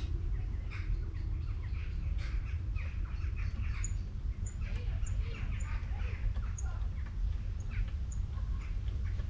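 Small birds chirping, with a run of short high pips about every half second for a few seconds in the middle, over a steady low rumble.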